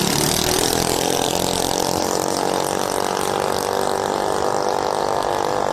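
Mini bike's small engine running at a fairly steady speed.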